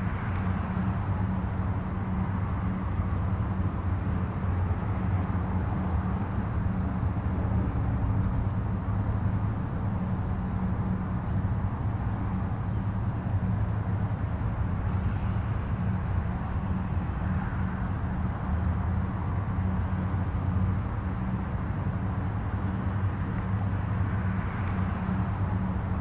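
Distant highway traffic: a steady low rumble of tyres and engines, with single vehicles now and then swelling and fading as they pass.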